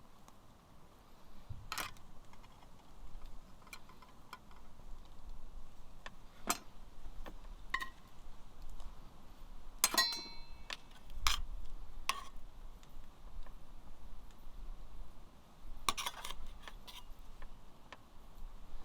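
Scattered clicks and taps of cooking utensils and cookware, with one ringing clink about ten seconds in.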